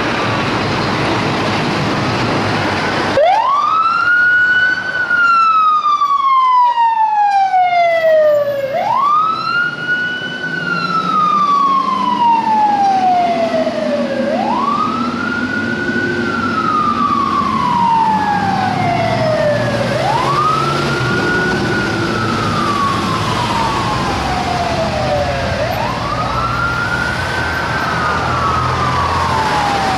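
Emergency vehicle siren switching on about three seconds in and sounding a wail. Each cycle rises quickly, then falls slowly, about once every five and a half seconds, over a low rumble of engine and traffic.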